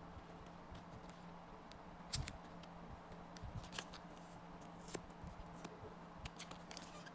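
Faint, scattered clicks and rustles of photocards and their packaging being handled, over a steady low hum.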